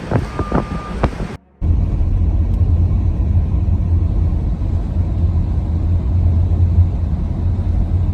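A few sharp knocks and a short beep, then, after a brief cut, a steady low motor-vehicle rumble.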